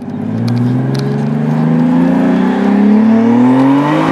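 Turbocharged BMW E36 328i's straight-six engine accelerating hard, its note climbing steadily through the revs.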